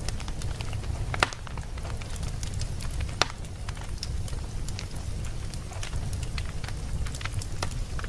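Wood fire burning in a fireplace, crackling steadily with scattered small pops over a constant low rumble, and two sharper, louder pops about a second and about three seconds in.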